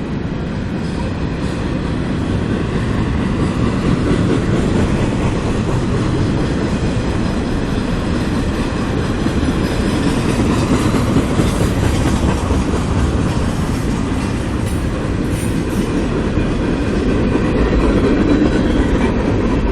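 CSX train's cars rolling past, a continuous loud noise of steel wheels on rail that holds steady throughout.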